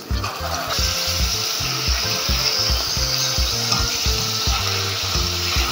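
Grated onion dropped onto browned beef and butter in a hot stainless steel pot: sizzling that picks up about a second in, with a wooden spoon stirring and scraping as the onion's juice loosens the browned fond from the pan bottom. A low, regular background music beat runs underneath.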